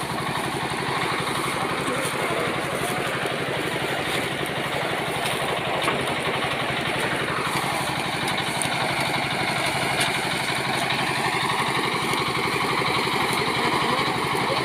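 Tractor engine running steadily, with a tone that falls in pitch about seven seconds in and then levels off.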